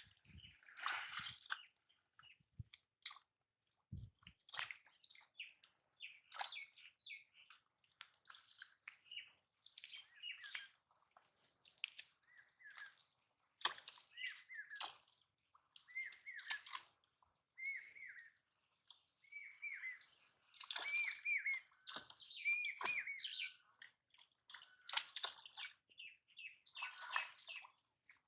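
Small birds chirping in short, repeated calls, some as brief rising-and-falling whistled notes. There are a few faint knocks in the first few seconds.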